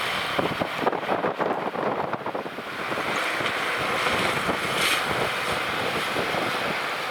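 Wind buffeting the microphone in gusts for the first couple of seconds, then settling into a steady rushing noise outdoors.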